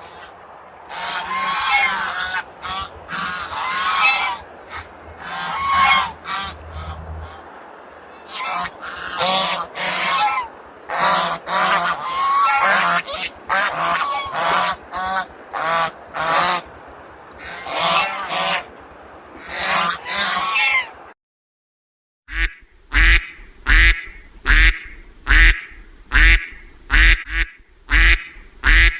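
Geese honking in a string of irregular calls. After a brief silence, a duck quacks in a steady rhythm, a little more than once a second.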